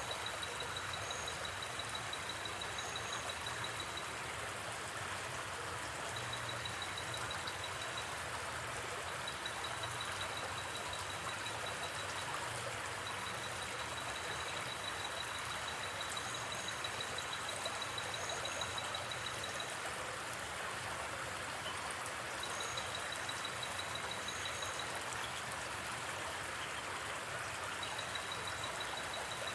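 Steady rush of a gently flowing river. Over it, a high pulsing trill from a night insect comes in long runs that start and stop, with a few short paired chirps above it and a few faint campfire crackles.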